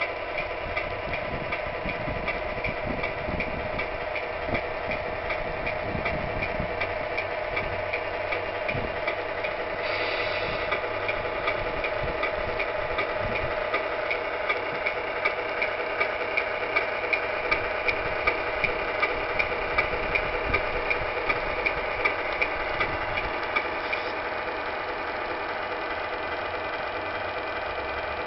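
Simulated diesel engine idling steadily from a 1/14 Tamiya Scania R620 RC truck's sound unit, with regular ticks about twice a second through the middle stretch.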